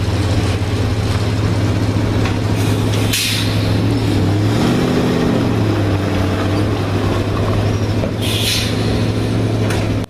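Vintage truck engine running steadily. Its pitch rises and falls once about midway, and short hisses come about three and eight seconds in.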